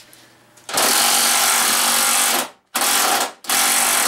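Cordless impact wrench hammering on a fender bolt in three bursts: a long run starting about a second in, a short blip, then another run near the end.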